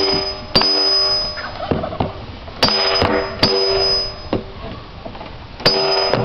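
Hammer blows on the steel hoop of a wooden wine barrel, driving it down into place: about five sharp strikes, each ringing on for up to a second.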